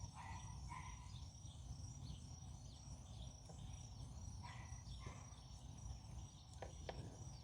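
Quiet background noise with a faint steady high whine, scattered faint small scratches, and two sharp light ticks close together near the end.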